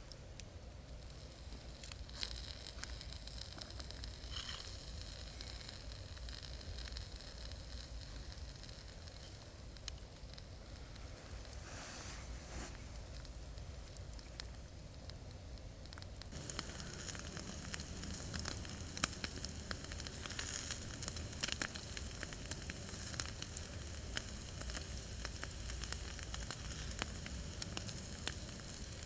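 Campfire burning with a steady sizzle and many small crackles and pops, which grow denser and louder a little past halfway.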